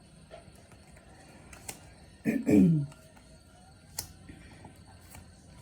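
A person's brief wordless vocal sound, falling in pitch, a little over two seconds in, with a few faint clicks around it.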